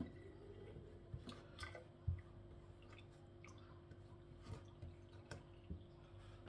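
Faint, scattered wet clicks, drips and squelches from chicken feet being handled in a pot of water as the loose nails are picked out, over a faint steady hum.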